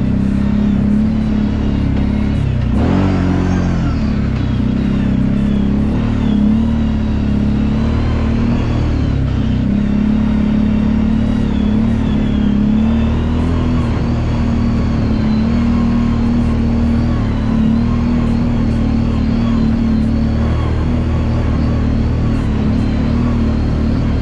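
Kawasaki Brute Force 750 ATV's V-twin engine running steadily on the trail; the revs dip and climb again about three seconds in.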